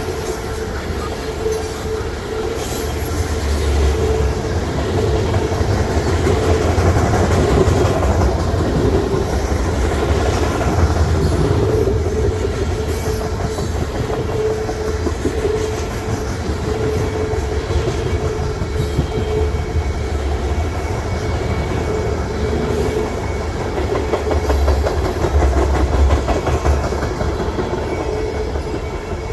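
Long freight train rolling past: a steady rumble of steel wheels on rail, with clicking over rail joints and a steady ringing tone from the wheels.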